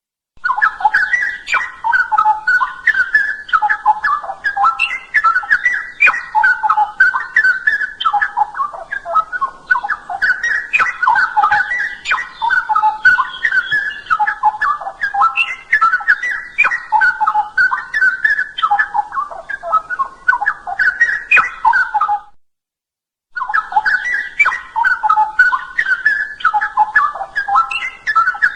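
Straw-headed bulbul (cucak rowo) singing loudly and continuously in rapid, liquid, warbling phrases of whistled notes. The song stops for about a second some three-quarters of the way through, then resumes.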